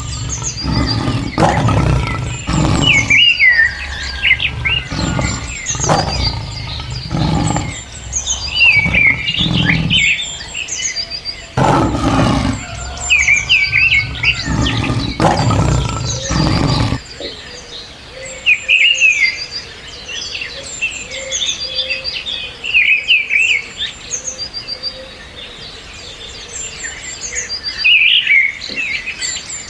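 Birds chirping and calling over and over. For the first part there is also a series of loud, low sounds that stop about two-thirds of the way through, after which only the birdsong goes on.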